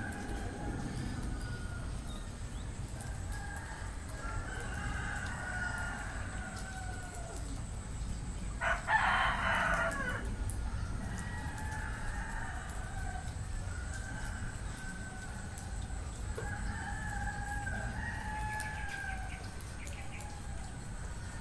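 Several roosters crowing one after another and overlapping, with one louder crow about nine seconds in.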